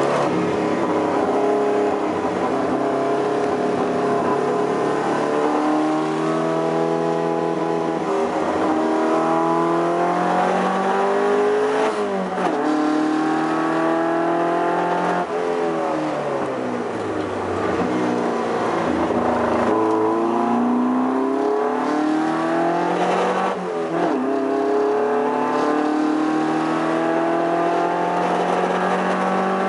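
Toyota TA22 Celica race car's 18RG twin-cam four-cylinder engine driven hard: the revs climb and then drop suddenly at each gear change, several times. Around the middle the revs fall and climb again as the car slows and picks up speed.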